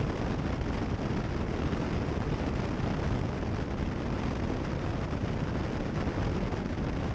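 Steady in-flight drone of a Cessna 172 Skyhawk, its engine and airflow noise heard through the headset intercom.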